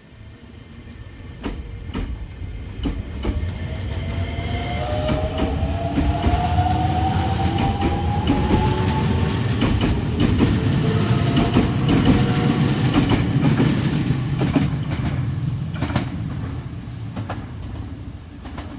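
Subway train running past, growing louder and then fading, with a rumble and rapid clicking of the wheels over the track. An electric motor whine rises steadily in pitch as the train gathers speed.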